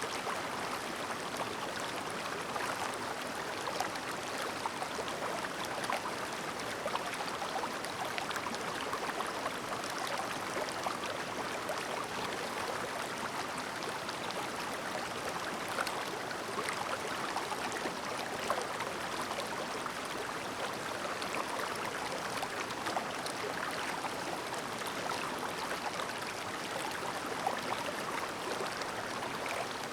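Clear mountain stream babbling steadily, a continuous rush of running water flecked with many small splashes and trickles.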